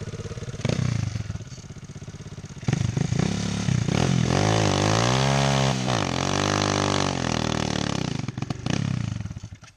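Single-cylinder four-stroke pit bike engine running, with a short rev about a second in. From about three seconds in it revs hard under load, its pitch dipping and rising, then stops abruptly near the end. The engine is bogged down on the launch.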